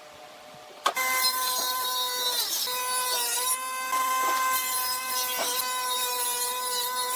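An electric power tool switches on with a click about a second in and runs with a steady, high-pitched motor whine. The pitch dips briefly a couple of seconds later, then settles back.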